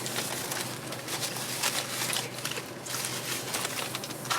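Someone chewing a mouthful of chicken sandwich close to the microphone, with irregular mouth noises.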